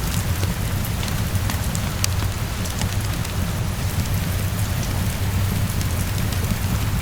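Heavy rain falling steadily against a window, with a steady low rumble of the storm underneath and scattered sharp ticks throughout.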